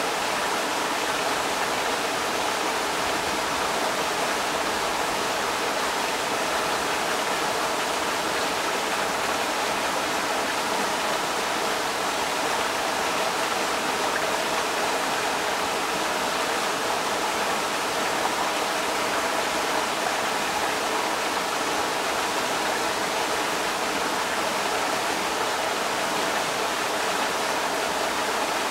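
Creek water rushing steadily over rocks, a constant hiss and splash with no change in level.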